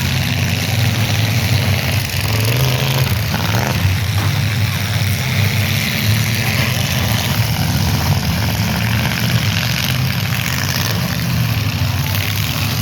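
Derby cars' engines running loudly and steadily together in a low, continuous drone, with a broad noisy haze over it.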